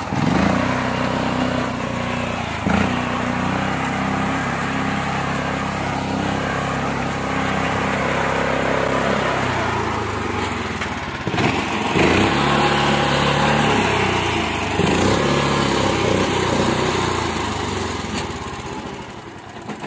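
Small mini-tractor engine running under load while plowing a mud field. Its note rises and falls, with short rises in revs a few times.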